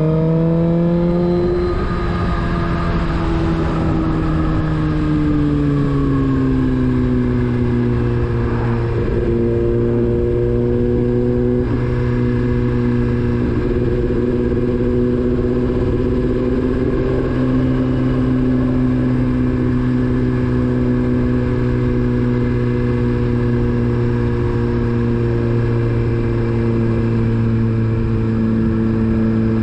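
Motorcycle engine running under way, its note dropping as the bike slows over the first several seconds, then holding a steady cruising pitch.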